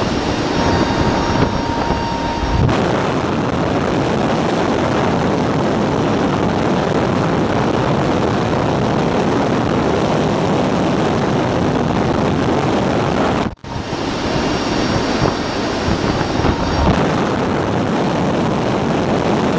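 Loud, steady rushing noise of aircraft and wind on the microphone, with abrupt changes about three and thirteen seconds in.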